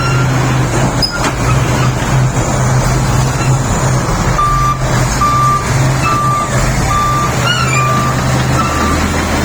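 SD32 bulldozer's diesel engine running steadily, and about halfway through its reversing alarm starts beeping at a steady rate of roughly one and a half beeps a second.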